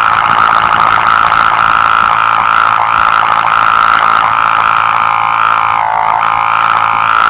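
Humming tape bird-scare line vibrating in the wind: a loud, buzzing hum that wavers up and down in pitch, dipping briefly about six seconds in.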